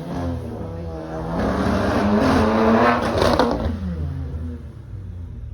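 Drag-racing cars accelerating hard down the strip, their engines revving with the pitch climbing, then fading away over the last second or so.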